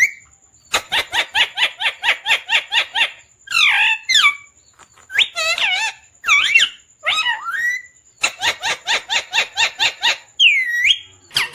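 Pet parrot calling loudly: two fast runs of short, sharp repeated notes, about six a second, with wavering, sliding calls between them and one long call that dips and rises again near the end.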